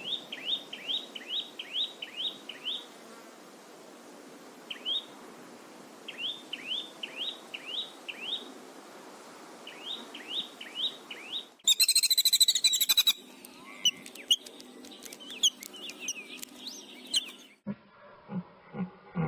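A small bird chirping in runs of quick, sweeping high notes, several a second, with pauses between the runs. About two-thirds of the way in, a louder harsh, rapid rattling call lasts about a second, followed by more scattered chirps and clicks.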